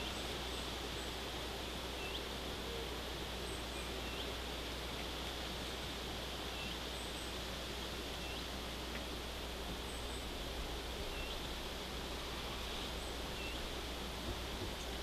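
Steady outdoor hiss with a small bird repeating a short hooked call every couple of seconds, and fainter, very high double chirps every few seconds.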